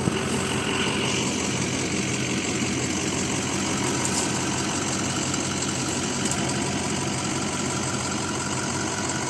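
A car engine idling steadily, with a couple of short knocks right at the start.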